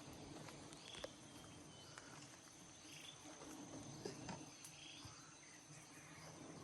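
Faint forest ambience: a steady high insect-like tone with scattered short chirps, and a couple of soft clicks about a second in and about four seconds in.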